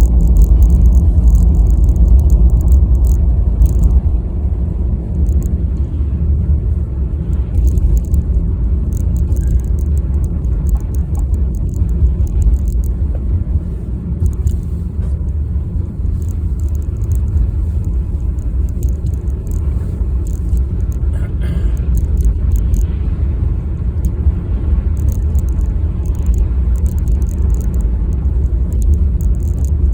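Steady low rumble of a car's engine and tyres heard from inside the moving car.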